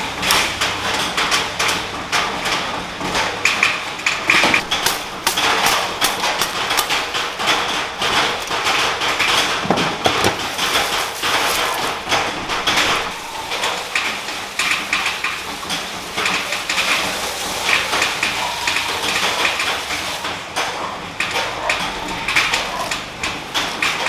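Heavy rain drumming loudly on a corrugated metal (tin) roof: a dense, continuous patter of countless small hits.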